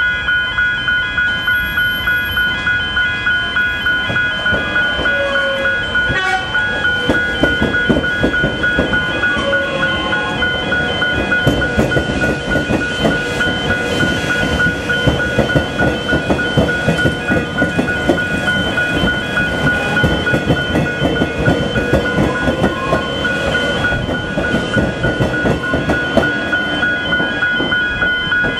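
Level crossing warning bells ringing steadily, a high repeating chime, while Metro Trains Melbourne X'Trapolis electric suburban trains pass over the crossing. The wheels clatter over the rails and the traction motors' whine rises and falls as the trains go by.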